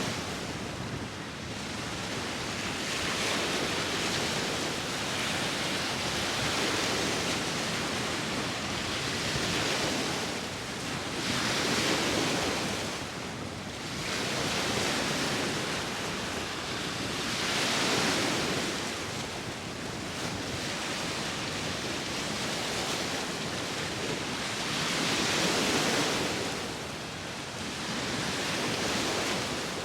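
Sea waves washing ashore in slow, repeating swells every few seconds, with wind.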